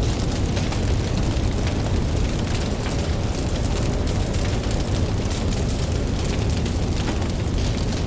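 Campfire crackling, with many small sharp pops over a steady low rumble, mixed with the wash of ocean waves.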